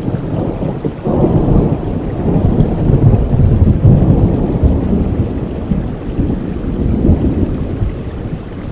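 Rain falling steadily with a long roll of thunder. The thunder breaks in about a second in, swells for a few seconds and slowly fades.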